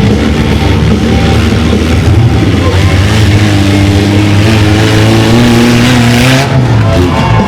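Mini monster truck's engine running hard under throttle, its revs rising and falling as it drives. Near the end the revs drop sharply and then climb again.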